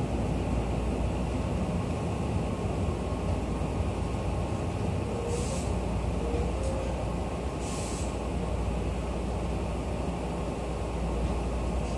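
Tobu 8000 series electric train heard from inside the car, running and rumbling steadily as it pulls into a station. Two short hisses of compressed air come about halfway through, a couple of seconds apart.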